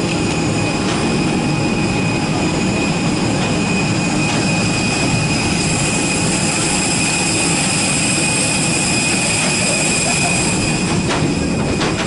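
Steady jet airliner noise: a rushing roar with a constant high-pitched whine, with a few short knocks near the end.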